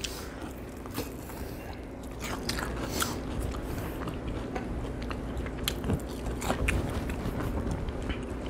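A person chewing a bite of crisp fried catfish, with many small crunches and clicks.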